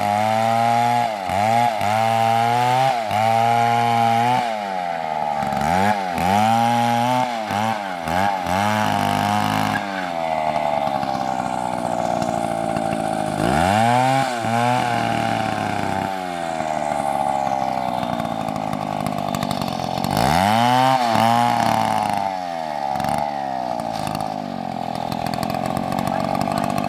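Large two-stroke chainsaw running at high revs while cutting, its pitch repeatedly dipping and climbing back as the chain bogs in the wood and recovers, with steadier stretches in between.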